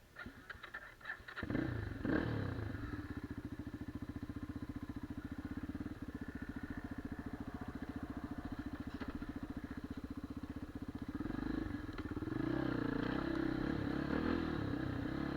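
Geon Dakar 250 Twincam's single-cylinder four-stroke engine starting: a few quick clicks, then the engine catches about a second and a half in and settles into a steady idle. Near the end it revs louder and less evenly.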